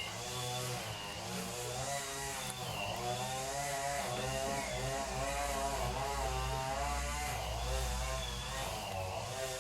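A small engine running steadily, its pitch wavering up and down.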